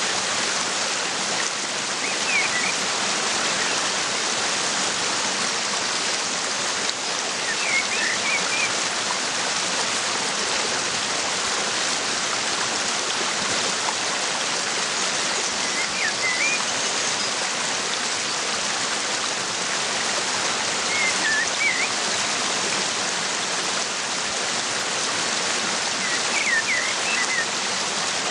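Steady rushing of a waterfall, with a small bird's short high chirps coming in brief clusters about every five seconds.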